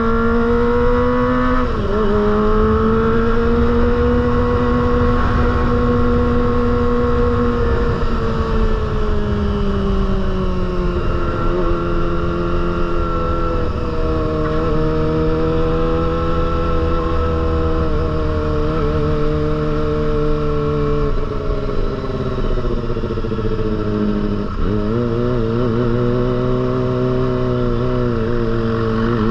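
Kawasaki ZX-25R's 250 cc inline-four engine running through a Proliner aftermarket exhaust. Its pitch holds, eases down, wavers and climbs again, with a sudden brief dip about two seconds in and another near the end.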